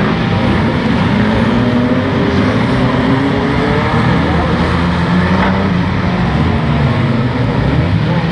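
Several pre-1980 banger racing cars' engines revving hard together, their pitches rising and falling over one another.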